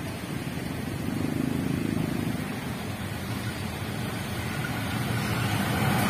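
Diesel locomotive approaching along the track, its low engine rumble growing steadily louder.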